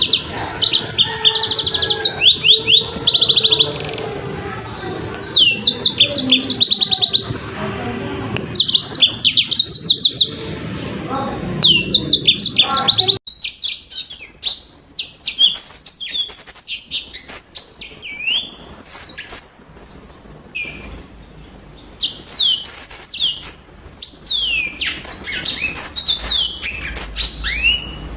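Yellow-fronted canary singing: bursts of fast, high trilled phrases, then from about halfway a run of quick rising and falling whistled notes. A low background rumble under the first half stops abruptly about halfway.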